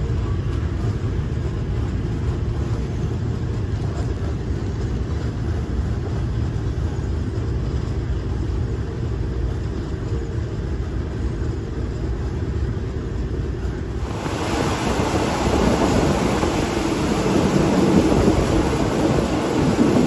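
Passenger train running, heard through an open window of a third-class carriage: a steady low rumble, then about fourteen seconds in a louder rushing noise of wind and wheels comes in and stays.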